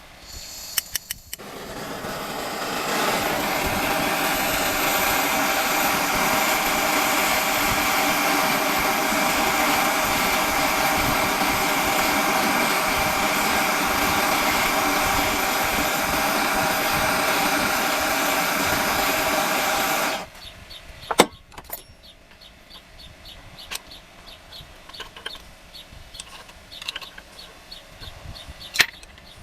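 A power tool motor spins up over about two seconds, runs steadily and loudly, then cuts off abruptly. Afterwards come scattered light metal clicks and clinks, as of engine parts and tools being handled.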